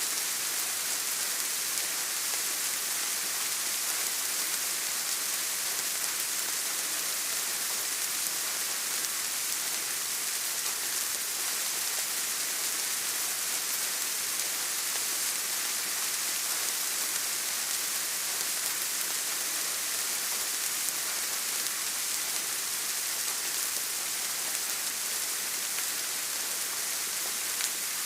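Steady rain falling, a continuous even hiss of many drops with no breaks or single standout sounds.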